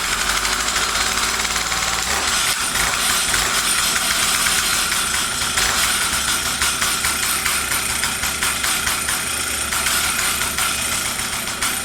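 Stihl 032 AV two-stroke chainsaw running steadily just after a cold start.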